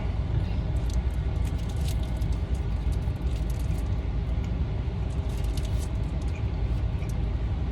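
Steady low rumble of an idling vehicle, with scattered small clicks and crackles.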